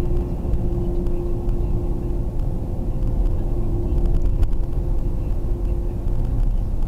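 A taxi's engine and road rumble, heard from inside the cab in slow, jammed traffic: a steady low rumble with a constant hum. There are a few short clicks about four seconds in.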